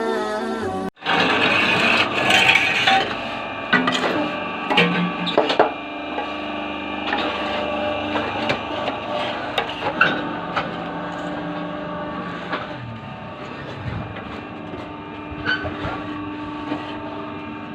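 Paving-block press machine running with a steady hum, with irregular sharp knocks and clanks throughout. Music plays for the first second before the machine sound starts.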